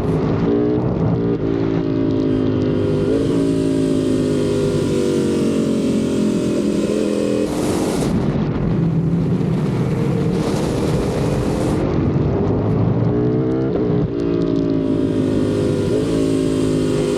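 Ducati Panigale V4 motorcycle's V4 engine under way, its pitch climbing and stepping with gear changes, easing off about halfway through, then revving up again through quick shifts near the end.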